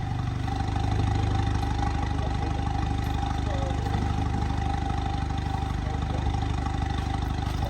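A motor vehicle's engine running steadily at low revs, an even low drone with a faint steady hum above it.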